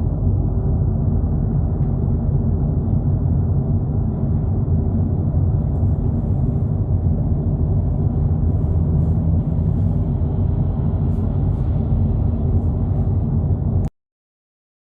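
Steady low rumble of a 2022 Volkswagen Polo GTI cruising at about 80 km/h, engine and tyre noise heard from inside the cabin. It cuts off suddenly near the end.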